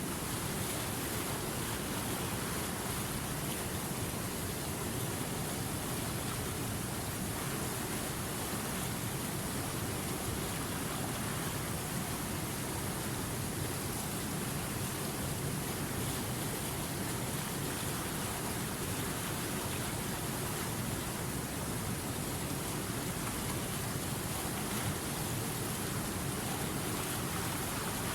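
River water running steadily, an even, unbroken rushing hiss with no separate splashes or changes.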